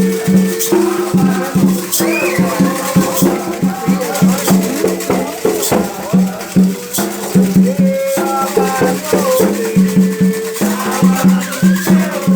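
Candomblé ritual music for Xangô: voices singing a chant over a fast, steady rhythm of hand drums and a shaken rattle.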